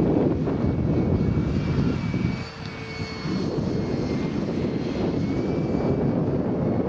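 Radio-controlled model F-22 Raptor jet flying, its motor giving a thin high whine that drifts slightly in pitch, over heavy gusty wind rumble on the microphone. The whine is clearest in the middle, where the wind briefly drops.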